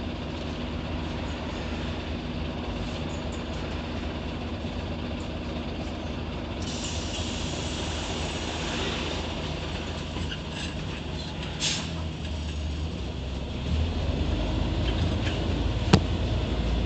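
Scania CN94UB OmniCity city bus heard from inside, its diesel engine running steadily. A hiss of compressed air comes about a third of the way in, and a sharp click near the end. The engine gets louder and deeper in the last few seconds as the bus pulls away.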